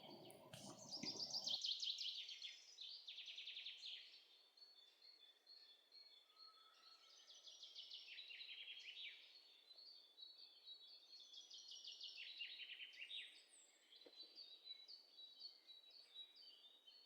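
Faint songbird singing in three phrases of rapid, falling trilled notes, with short gaps between them.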